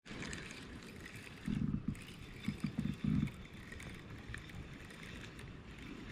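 Water lapping and gurgling against a kayak hull, with a few short low bumps about a second and a half in and again around three seconds in.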